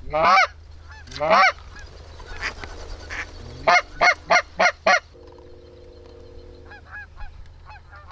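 Goose honking close by: two loud honks at the start, then a quick run of five about four seconds in, followed by a steady held tone lasting about a second and a half. Fainter honks from other geese continue in the background.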